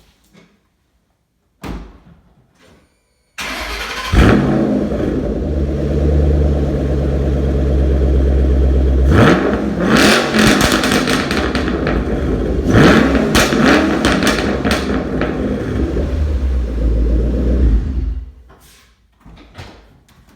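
2008 Shelby GT500KR's supercharged 5.4-litre V8 cranked and started about three seconds in, then idling. It is blipped twice, with a rising-and-falling rev each time, followed by exhaust crackle and pops as the revs drop. The engine is switched off near the end.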